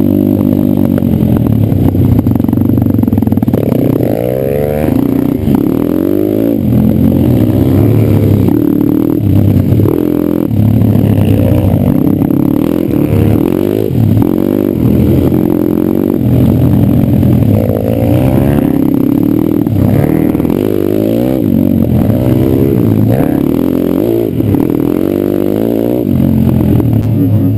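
Off-road pit bike's single-cylinder engine under way, revving up and falling back over and over as the rider works the throttle through the gears, with chassis clatter mixed in.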